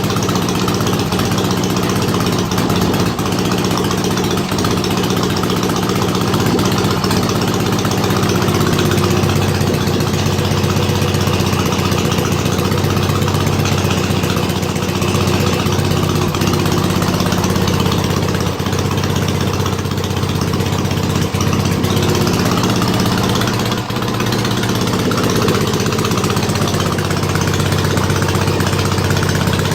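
Dnepr K-750 side-valve flat-twin motorcycle engine, freshly rebuilt with modified oversize car pistons, running steadily at an even speed on its test run.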